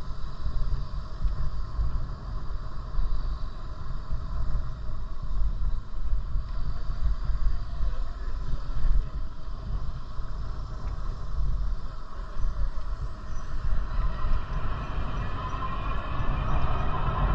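Wind buffeting the microphone, a low gusty rumble, over steady road noise while riding a bicycle; the hiss grows louder near the end.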